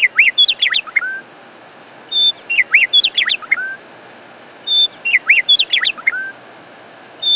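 Bird song: a short whistle followed by a quick run of rising and falling chirps that ends on a lower note, the same phrase repeated about every two and a half seconds.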